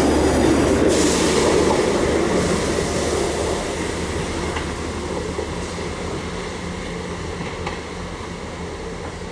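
Two coupled Class 159 diesel multiple units pulling away: a steady low diesel drone with wheel-on-rail rumble, fading evenly as the train moves off into the distance.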